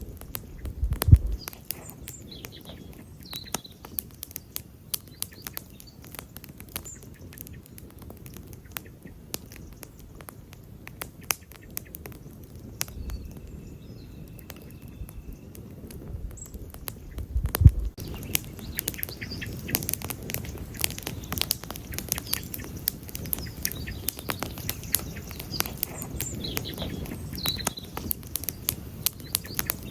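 Wood campfire crackling, with irregular sharp pops and snaps that grow denser in the last third. Two louder low thumps stand out, one about a second in and one a little past halfway.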